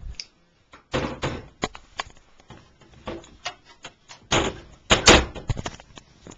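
Wooden locker doors and hatch lids in a sailboat's cabin being opened and shut: a string of knocks and clatters, the loudest bangs about four and a half to five and a half seconds in.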